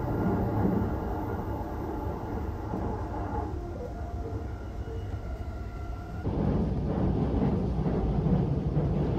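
Cabin running noise of the Saphir Odoriko, an E261-series electric train: a steady rumble of wheels on rail with a faint steady whine. About six seconds in it gets louder and harsher as the train crosses a steel truss bridge.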